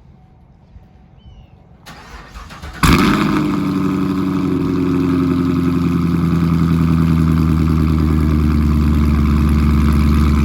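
Chevrolet Camaro 2SS V8 starting through headers and a freshly installed MBRP cat-back exhaust: a short crank about two seconds in, then it fires with a loud burst and settles into a steady idle. It is a lot louder than open headers.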